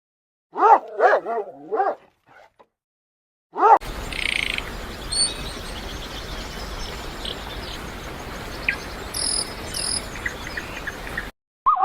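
A dog barking in a quick run of short barks, and once more a moment later. Then a steady outdoor hiss with scattered high bird chirps, which cuts off near the end.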